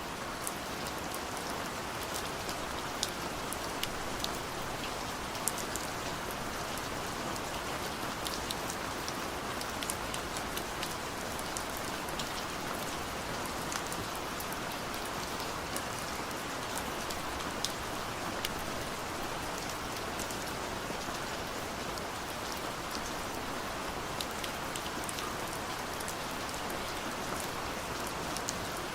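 Steady rain falling, a constant hiss with many individual drops pattering and ticking on a surface.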